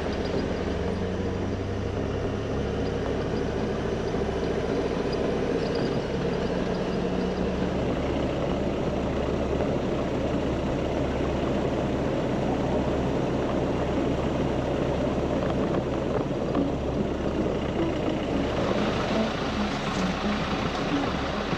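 A vehicle engine running steadily with road noise, a continuous low drone, as when riding along in an overland vehicle. The hissing road noise grows louder near the end.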